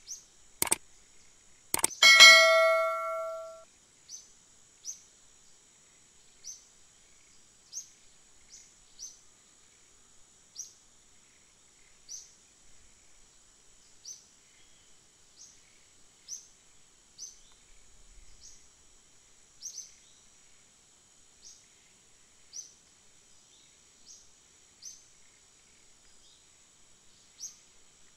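A bell-like ding rings once about two seconds in and fades over a second or so. After it, a bird gives short, falling chirps every second or two over a steady high insect drone.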